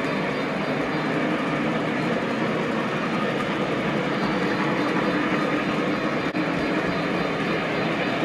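Lionel model train running on the layout's track, a steady rumble of wheels and motor.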